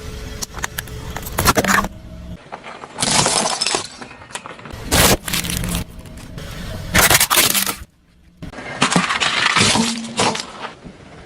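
Objects crushed under a car's tyres: a series of loud crunching, breaking sounds about every two seconds, over background music.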